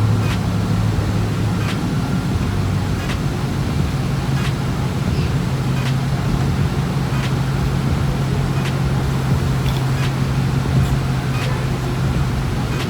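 A steady motor hum with a held low tone and a haze of rushing noise, with a faint click about every second and a half.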